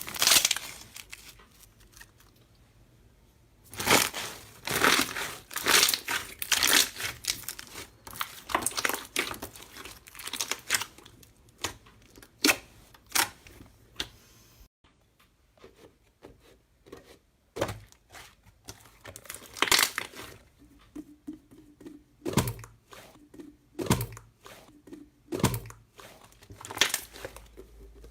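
Slime being squeezed, poked and stretched by hand, making crackling, crinkling clicks in clusters with short quiet pauses.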